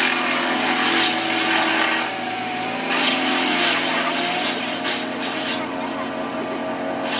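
Steady drone of a small engine on the tree crew's equipment, running without a change in speed, with a faint wavering higher tone over the first few seconds.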